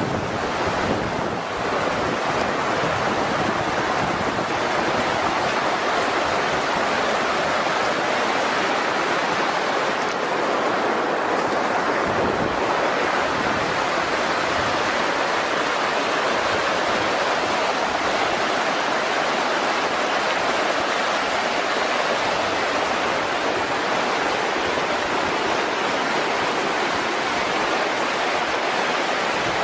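Rushing floodwater, a steady loud rush of water.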